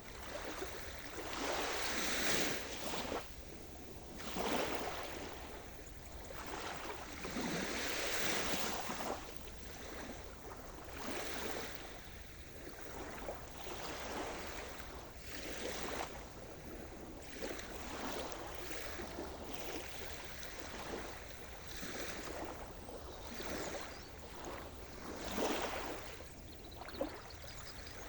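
Sea surf: small waves washing in and draining back, a hiss that swells and fades every couple of seconds.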